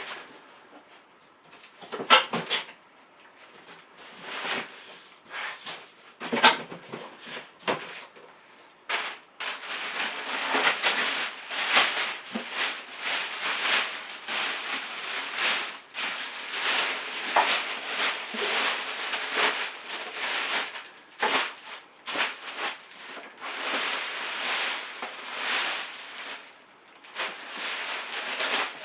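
Styrofoam packing and cardboard being handled and pulled from a box: a few sharp cracks and knocks at first, then nearly continuous crackling, squeaking and rubbing for most of the rest.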